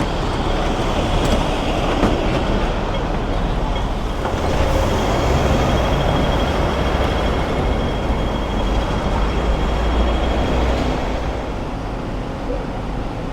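A moving train's steady running rumble, with a faint high whine held for a few seconds in the middle.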